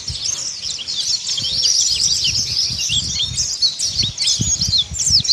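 White-eye (pleci, Zosterops) chirping in a fast, unbroken twitter of short high notes, the rapid 'ngeriwik' chatter. Dull low thumps sound intermittently underneath.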